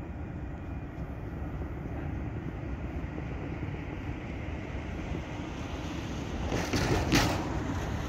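A train rumbling steadily along a street-running track as it moves away. A short burst of louder rattling and clanking comes near the end.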